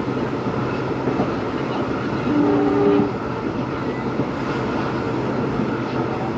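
EMD WDP4B diesel locomotive's two-stroke engine humming steadily, with a short two-tone horn blast of under a second a little over two seconds in.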